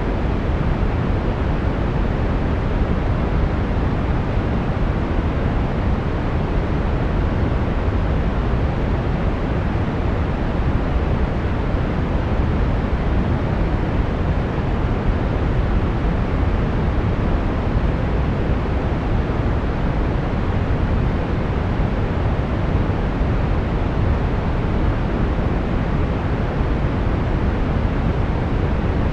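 Steady brown noise: an even, deep rushing hiss, strongest in the low end and fading toward the treble, with no change throughout.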